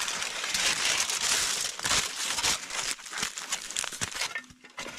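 Lamb shank sizzling and crackling as it roasts over a campfire; the sizzle is densest for the first three seconds, then thins to scattered crackles.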